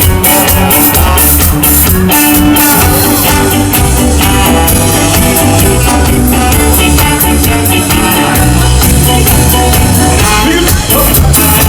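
Ska band playing live: a loud instrumental stretch with a steady, even drum beat over a bass line.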